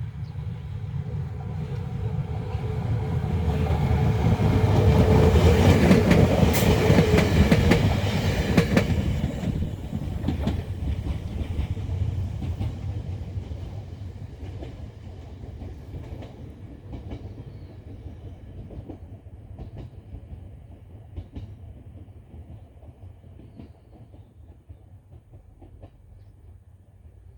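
Ueda Electric Railway Bessho Line 6000 series electric train passing close by. It grows louder to a peak about five to eight seconds in, then the wheels clack over the rail joints as it goes by, and it fades away slowly.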